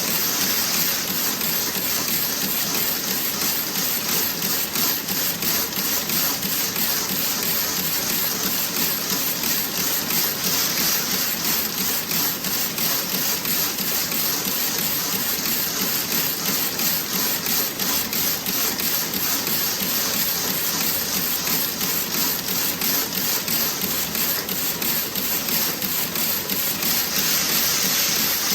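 Toe-sock knitting machine running, a steady rapid mechanical clatter of even clicks over a hiss.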